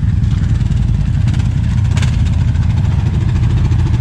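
A 700 cc ATV engine running steadily.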